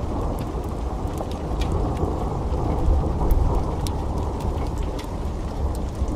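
A long rolling thunder rumble over steady heavy rain. The rumble swells in at the start, is loudest about halfway through and then eases, with scattered sharp crackles throughout.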